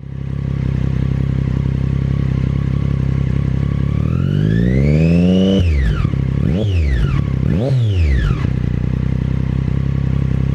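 Triumph Daytona 675R's inline three-cylinder engine idling through an Akrapovic full titanium exhaust, then revved once in a slow rise about four seconds in and blipped twice in quick succession before settling back to idle.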